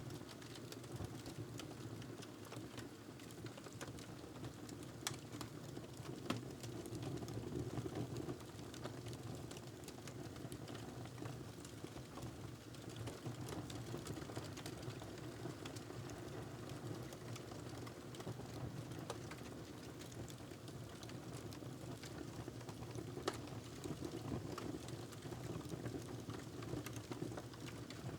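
Wood fire crackling in a fireplace: a steady low rush of burning with scattered small snaps and pops, a few sharper pops about five and six seconds in and again near twenty-three seconds.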